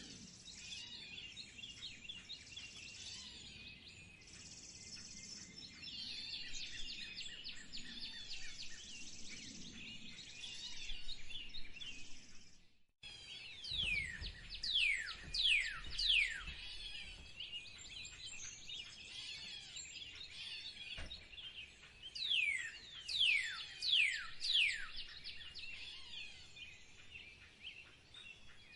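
Several wild songbirds chirping and singing together. After a brief break midway, one bird sings loud runs of clear falling whistles, twice, about five notes each.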